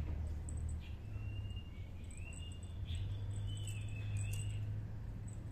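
Faint, thin, high-pitched bird chirps and whistles, wavering in pitch and coming in several short phrases, over a steady low background rumble.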